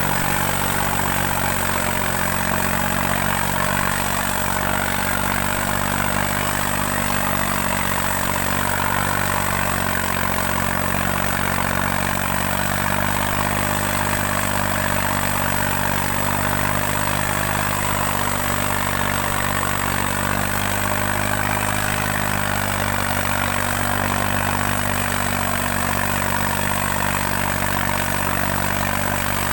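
New Holland 3630 tractor's diesel engine running at a steady speed.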